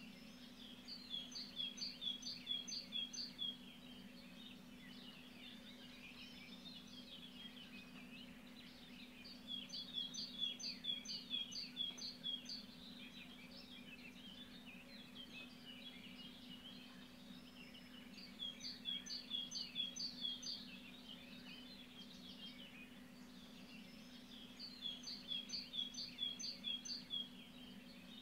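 A songbird singing a short phrase of about six quick repeated notes four times, roughly every eight seconds, with fainter bird chirping and a steady low hum in between.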